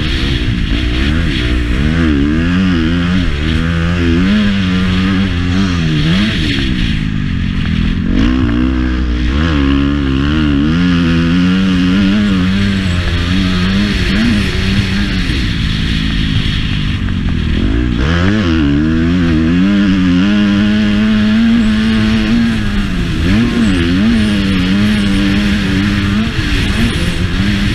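Motocross bike engine being ridden hard, revving up and falling back over and over, its pitch climbing and dropping every second or two with the throttle.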